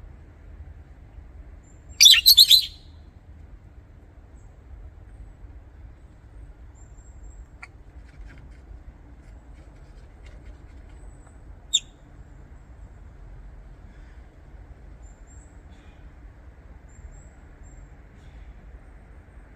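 Lovebird giving a short burst of shrill chirps about two seconds in, then a single sharp chirp near the middle, with a few faint high chirps in between over a low steady hum.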